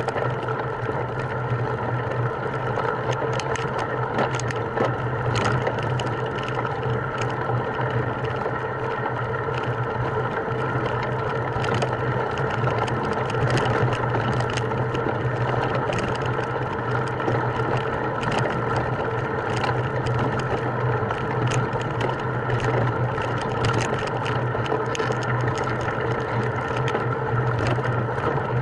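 A steady mechanical drone with a constant low hum, overlaid by frequent short clicks and rattles.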